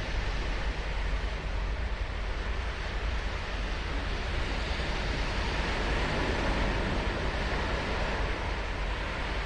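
Ocean surf washing continuously on a sandy beach, a steady rushing noise with a low rumble underneath.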